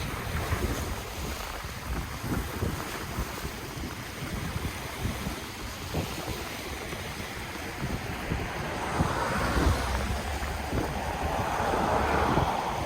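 Ocean waves washing on the shore, with wind rumbling on the microphone. The wash swells about nine seconds in and again, loudest, near the end.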